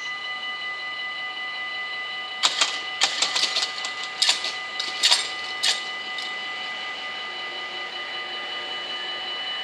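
Dutch level-crossing warning bells ringing continuously in a fast, steady ring. From about two and a half to six seconds in, a run of sharp, irregular metallic clacks sounds over the bells.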